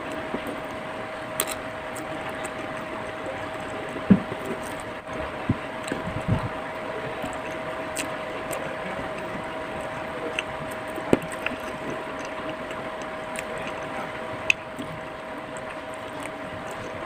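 Eating sounds from a mukbang meal: scattered clicks and knocks, as of utensils on a plate, over a steady hum with a constant tone.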